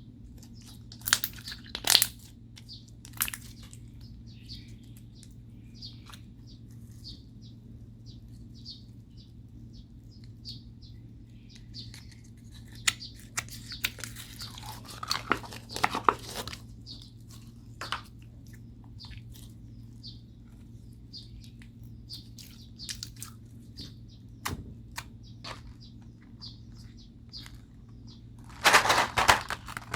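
Hands kneading and stretching slime: scattered sticky clicks and small pops, with denser crackling squishes about halfway through and again near the end.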